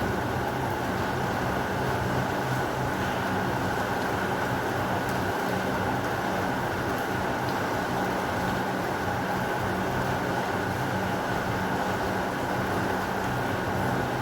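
Steady heavy rain: an even, unbroken hiss with a low hum underneath and no thunder.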